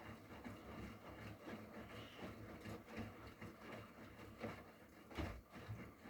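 Bosch tumble dryer and Miele W360 washing machine running, laundry tumbling in the drums with a faint rumble and soft, uneven thuds, and one louder thump about five seconds in.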